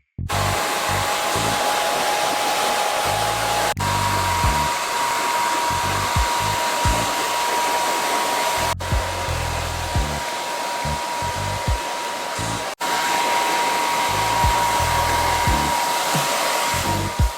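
Handheld hair dryer blowing steadily, a loud rush of air with a steady whine that steps slightly higher in pitch after a cut about four seconds in. Background music with a bass line plays underneath.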